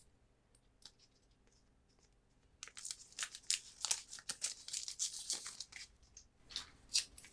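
Foil booster-pack wrapper of Pokémon cards being torn open and crinkling, starting a couple of seconds in and lasting about three seconds, followed by a few light clicks and rustles of handling.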